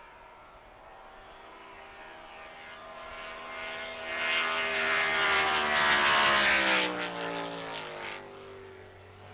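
Grand Prix hydroplane racing boat's engine passing by at speed: it grows louder to a peak about two-thirds of the way through, then drops in pitch and fades as it goes away.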